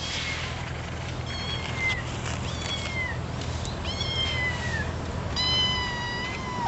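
A cat meowing repeatedly: about five high-pitched meows that fall in pitch, the last one long and drawn out.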